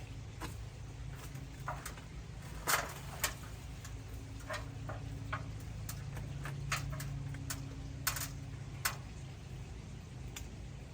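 Irregular sharp clicks and snaps, about a dozen, loudest a few seconds in, over a steady low hum.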